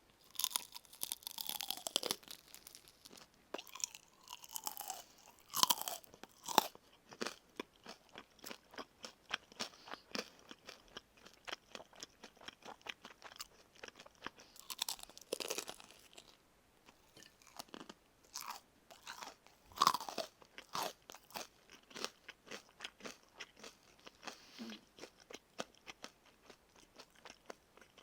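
Close-miked crunching and chewing of karaage (Japanese fried chicken), the crisp fried coating cracking between the teeth in a run of quick clicks. Louder crunchy bites come every few seconds.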